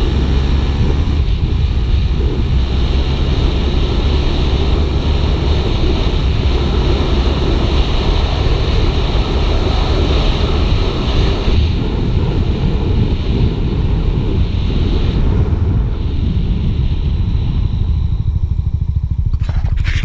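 Suzuki GSX-R 150's single-cylinder engine running steadily under way, with wind rushing over the mic; the wind noise dies down over the last few seconds as the bike slows.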